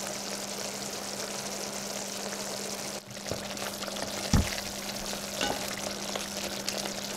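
Thick curry sizzling as it fries in an enamelled cast-iron pot while a wooden spatula stirs it, with one louder knock of the spatula against the pot about four seconds in. A steady low hum runs underneath.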